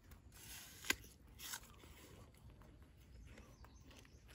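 A single crisp bite into fresh fruit about a second in, followed by faint chewing with small clicks.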